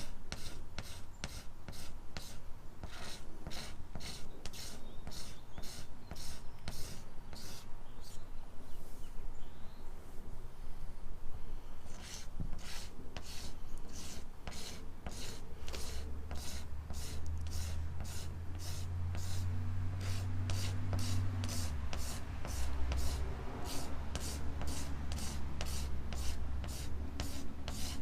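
Hand scraping or rubbing strokes on the kayak's plastic hull, about two back-and-forth strokes a second, smoothing down the filled scratch; the strokes pause for a few seconds about a third of the way in. A low hum comes in during the second half.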